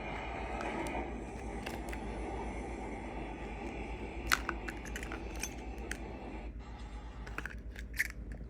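Small hard parts being handled at a repair bench: scattered light clicks and taps, two of them sharper, about four seconds in and near the end, over a steady hiss that stops about six and a half seconds in and a constant low electrical hum.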